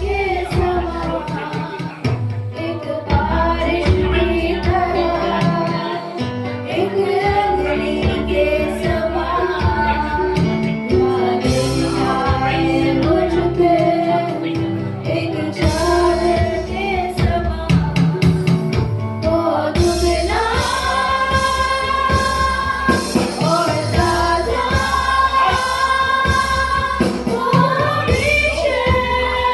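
A Hindi Christian worship song sung by a group, women's voices prominent, over instrumental backing with a steady beat; the sung lines turn to longer held notes from about twenty seconds in.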